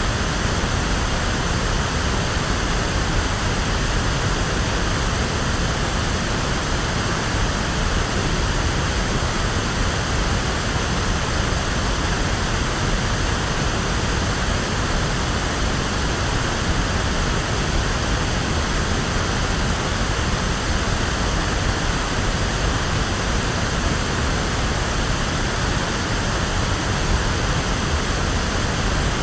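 Electronically generated pink noise: a steady, even hiss with full bass, like a waterfall or surf, unchanging throughout.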